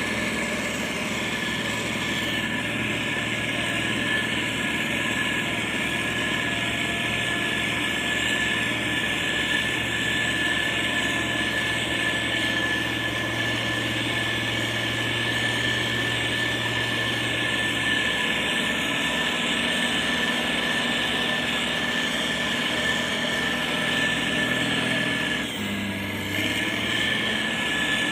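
Heavy diesel road-construction machinery, a motor grader and road roller, running steadily under load: a continuous engine drone with a steady high whine over it, briefly dipping about 25 seconds in.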